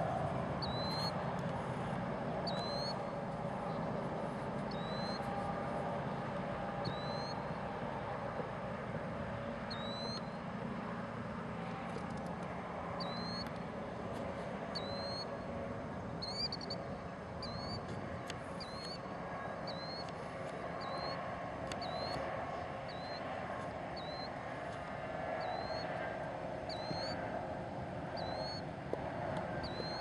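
A small bird repeating a short, high, upslurred call note, at first about once every second or two and more often in the second half, over steady background noise.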